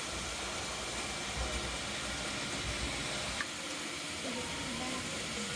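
N-scale model train running on layout track, a steady whirring hiss of motor and wheels, with one sharp click about three and a half seconds in.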